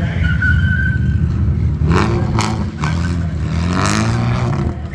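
A car engine running hard and revving, rising in pitch twice, with bursts of tyre skidding noise.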